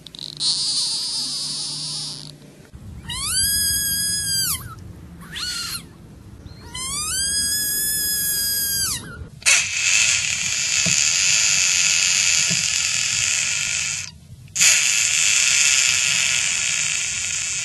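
A series of frog distress screams. First a short hissing screech, then two long, high, drawn-out screams from a frog seized by a garter snake, each rising, holding and falling. From about ten seconds in come two long, harsh screeches from a horned (Pacman) frog with its mouth gaping.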